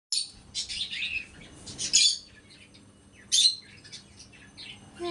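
Small birds chirping in short, high-pitched bursts, loudest about two seconds in and again about three and a half seconds in.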